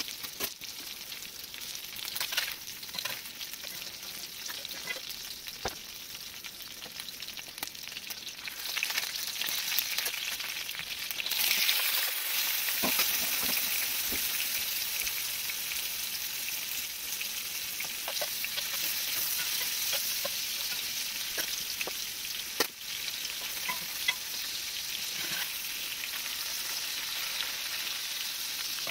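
Catfish fillets sizzling in hot oil in a cast iron pan, with scattered sharp pops and clicks. About eleven seconds in, the sizzle jumps louder and stays loud as raw shrimp go into the pan.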